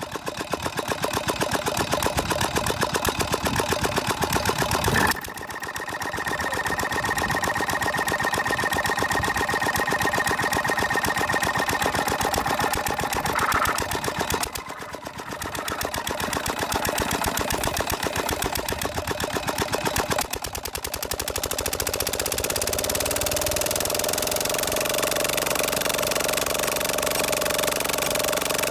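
A diesel engine running with a fast, even beat. It dips briefly three times and picks up again, then settles into a steady, lower-pitched run in the last several seconds.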